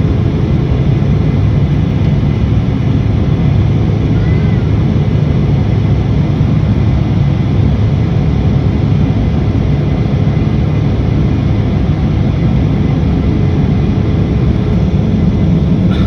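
Airliner cabin noise just after takeoff: a steady low rumble of engines and rushing air, with a faint steady hum.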